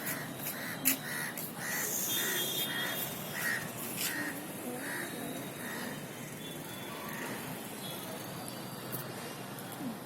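A bird calling over and over, about two to three short calls a second, stopping about halfway through, over a steady background hiss. A sharp click about a second in is the loudest sound.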